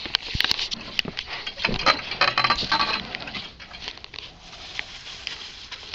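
Dogs running and scuffling in play, with a quick pattering of paws and rustling, busiest in the first three seconds and fading after.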